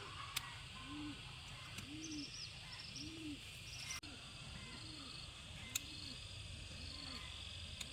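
Animal calls in the open: a run of low hoots, about one a second, each rising then falling in pitch, with faint high bird chirps above and a few sharp clicks.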